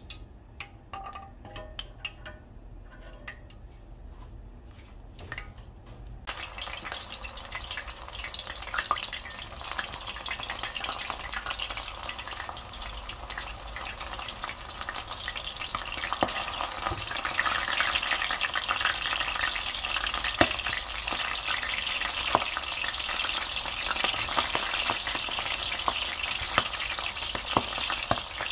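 Battered mitre squid (hanchi) frying in hot oil: a dense sizzle full of crackles and pops. It comes in suddenly about six seconds in and grows louder in the second half. Before it there are only a few light clicks.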